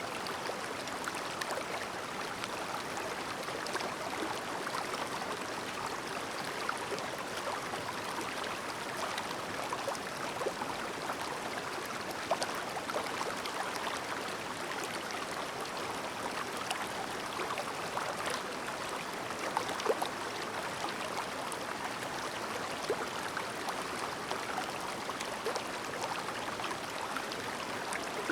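A clear, shallow mountain stream babbling steadily over stones, a continuous rush of water with small splashes and gurgles scattered through it.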